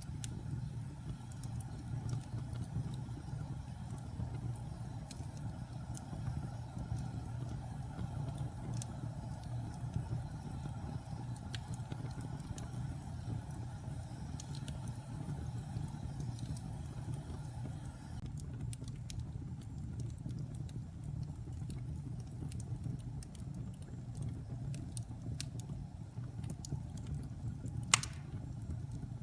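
Fire burning in a fireplace: a steady low rumble of flames with scattered small crackles, and one sharp louder pop near the end.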